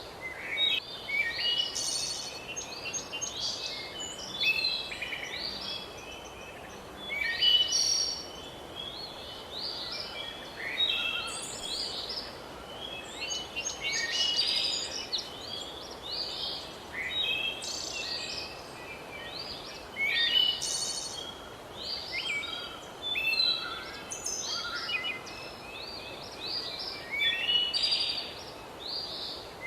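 Several songbirds singing together in a dense chorus of short chirps, whistles and trills, over a steady background hiss.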